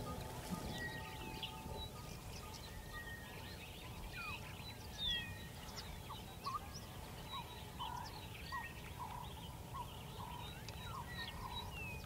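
Many wild birds chirping and whistling at once, with a short call repeated about twice a second from about midway on, over a low steady background rumble.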